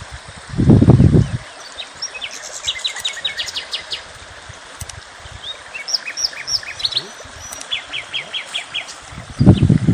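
Several small birds chirping and singing, with quick runs of short high notes repeating throughout. A loud low-pitched sound comes briefly about a second in and again near the end.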